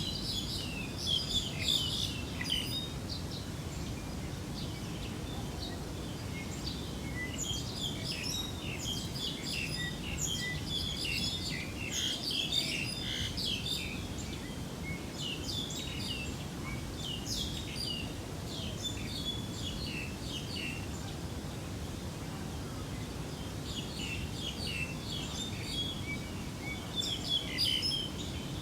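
Birds chirping in clusters of quick, high calls, busiest in the first two seconds, through the middle stretch and near the end, over a steady low rumble.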